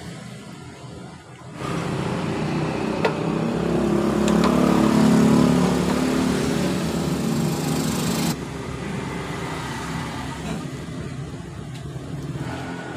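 A motor engine running steadily. It comes in about a second and a half in, and drops off sharply about eight seconds in to a fainter running sound.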